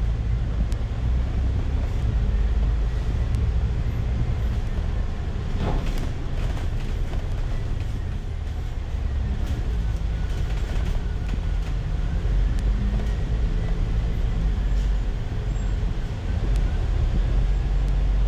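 Bus running in traffic, heard from inside the passenger cabin: a steady low engine and road rumble whose pitch shifts as the bus changes speed, with one sharp knock about six seconds in.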